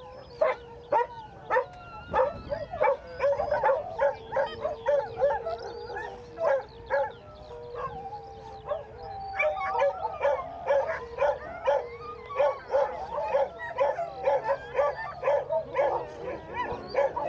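Dogs barking and yelping over and over, about two short yelps a second, with a long drawn-out whine or howl running underneath for much of the time.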